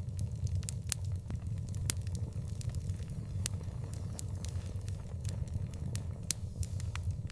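Wood fire crackling, with sharp irregular pops, a few each second, over a steady low rumble.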